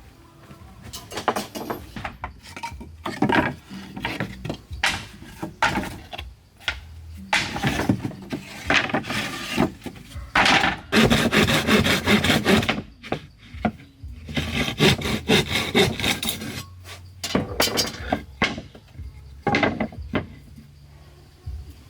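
Wood being worked by hand with a rasping, back-and-forth tool stroke, in runs of quick strokes broken by short pauses.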